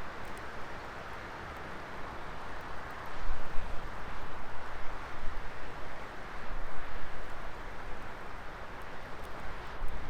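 Wood fire burning in a fire pit: a steady, uneven rush of flames, swelling and easing, with a few faint crackles.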